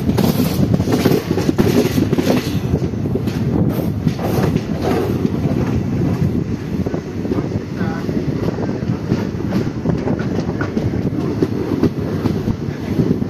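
Passenger train running along the track, heard from an open coach doorway: a loud, steady rumble of wheels on rail with scattered clacks.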